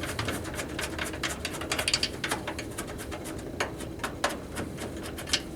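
Two knobs under a furnace humidifier being unscrewed by hand and the housing worked loose to get at the vapor pad: scattered light clicks, taps and rattles.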